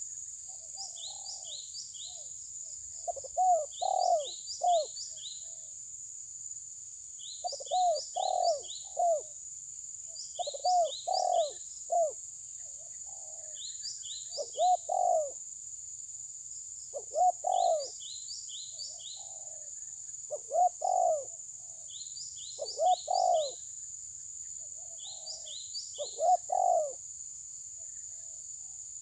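Bird calls: a short phrase of low cooing notes repeated about every three seconds, each time joined by a quick run of four or five high chirps. A steady high-pitched whine runs underneath.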